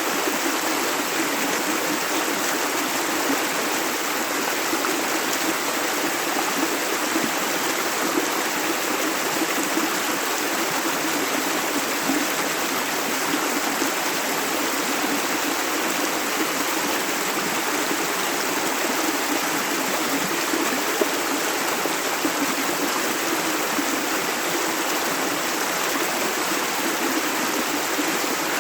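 A river or stream flowing over stones, a steady rush of running water.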